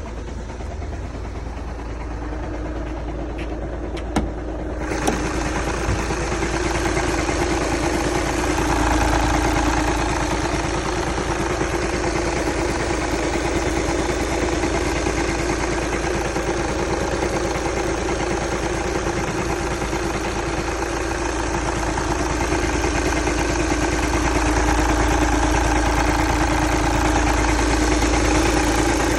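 2011 Volkswagen Jetta TDI's 2.0-litre turbodiesel engine running with a knocking sound the owner cannot identify. A few sharp clicks come about four seconds in. About five seconds in the sound turns fuller and louder, and it grows louder again later on.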